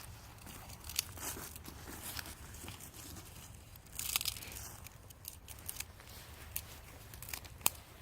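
Dry leaves and grass rustling and crunching as they are handled and gathered for a fire, with scattered sharp clicks and a louder crackling rustle about four seconds in.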